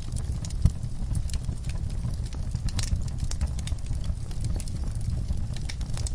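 Wood fire crackling, with irregular sharp pops and snaps over a steady low rumble; one louder pop under a second in.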